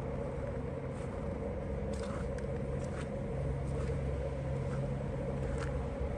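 Steady low drone of a running motor vehicle engine, with a few faint, irregular clicks over it.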